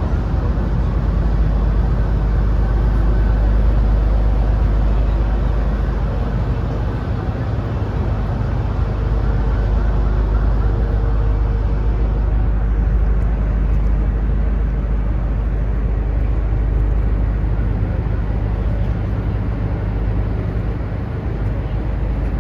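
Steady low drone of a car ferry's engines under way, with a deep rumble and a constant low hum.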